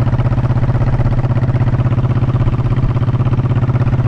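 Honda motorcycle engine idling steadily at an even, unchanging pitch.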